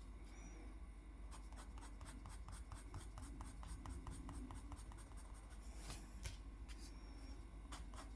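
Drawing strokes on paper: a quick run of short, even strokes, about eight a second, for a few seconds, then a few slower separate strokes.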